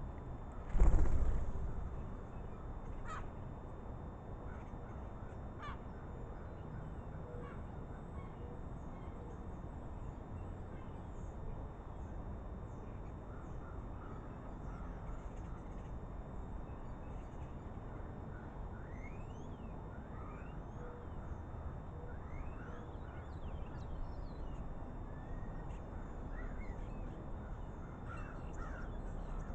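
Crows cawing, mixed with scattered short chirps and quick rising whistles from smaller birds. A loud thump about a second in is the loudest sound.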